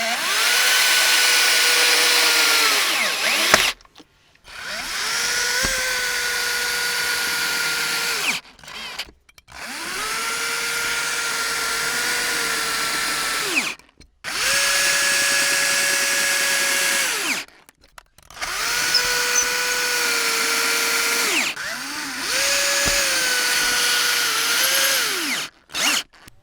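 Power drill running in about six bursts of three to four seconds, its motor whine rising as it spins up and falling as it winds down at the end of each run, with short pauses between.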